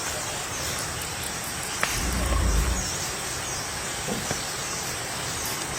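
Steady high hiss of insects with faint repeated chirps, and a brief low rumble about two seconds in.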